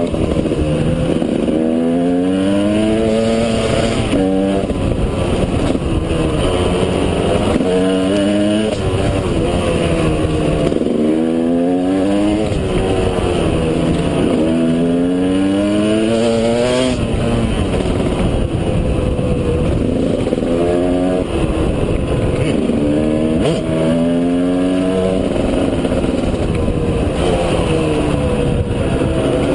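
KTM 200 EXC two-stroke single-cylinder engine accelerating hard through the gears. Its pitch climbs, drops at each gear change and climbs again, in several runs with the throttle eased between them.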